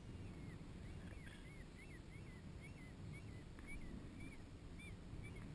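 Low rushing of wind and water, over which a bird calls again and again in short rising-and-falling notes, about three a second.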